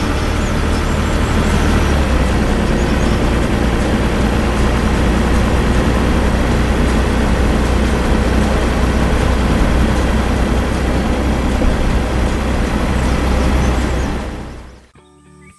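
Heavy vehicle engine running with a steady low rumble, fading out near the end.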